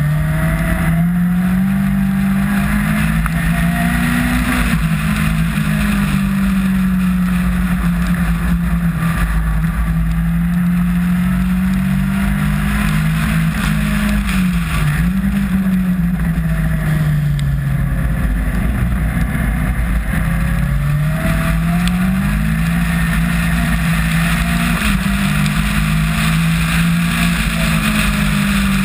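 Caterham R300 Superlight's Ford Duratec four-cylinder engine under racing load, heard onboard. Its pitch climbs through the revs and drops sharply at gear changes and braking, over a steady rush of wind and spray on the wet track.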